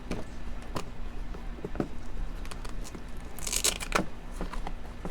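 A new Fly Racing dirt bike boot being handled and fastened: scattered light clicks and knocks, and a short rasping rip about three and a half seconds in.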